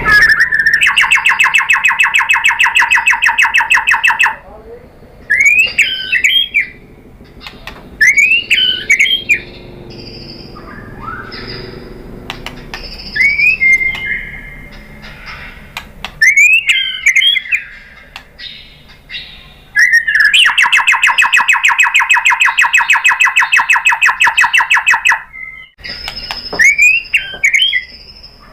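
White-rumped shama singing: short looping whistled phrases, broken by two long, rapid, evenly pulsed rattles, one near the start and a longer one about two-thirds of the way through.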